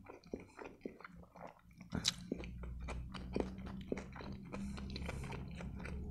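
A person chewing a mouthful of turkey shawarma in grilled lavash close to the microphone: a quick run of small mouth clicks and smacks, with one sharper click about two seconds in.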